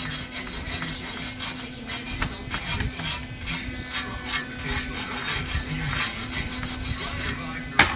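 Hand tool working on metal exhaust pipe in repeated rasping strokes, like sawing or filing, over a steady low hum, ending with a single sharp knock near the end.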